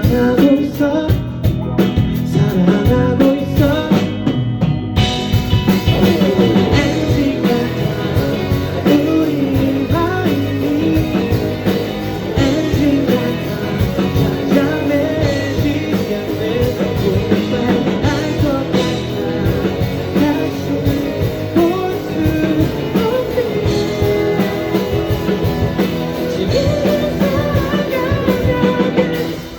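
Rock band playing with a singer: vocals over guitar and a rhythm section, the sound filling out with more top end about five seconds in.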